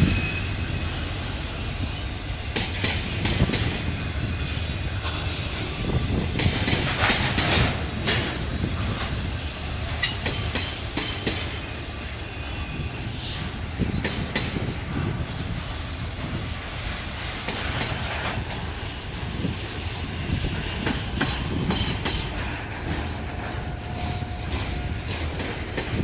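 Train cars rolling past with a steady rumble, the wheels clicking over the rail joints.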